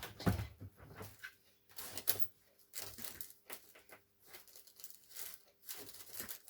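Sheets of paper rustling and crinkling in irregular short bursts as they are handled and sorted.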